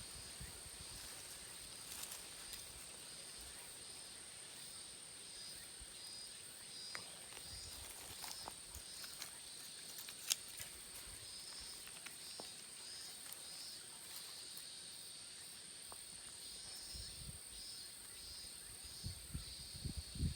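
Faint insect chorus: a continuous high, even buzz with a pulsing chirping layer beneath it, and a few small scattered clicks.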